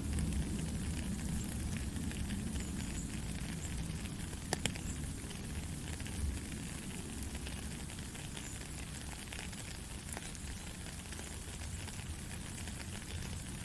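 Heavy rain falling steadily, with scattered sharp drop ticks over a constant low rumble.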